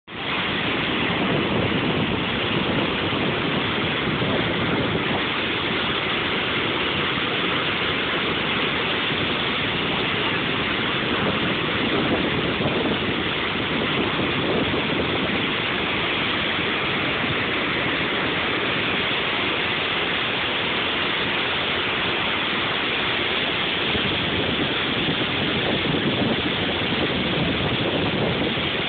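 Flood release of about 88,000 cubic feet of water per second surging out of a dam outlet tube into the stilling basin: a steady rushing roar of churning water.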